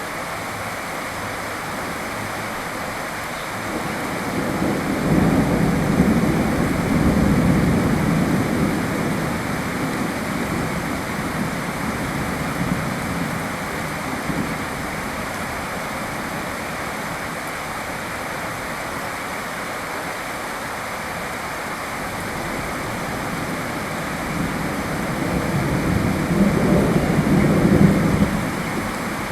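Steady heavy rain, with a long roll of thunder swelling about four seconds in and fading over several seconds, and another rumble building near the end.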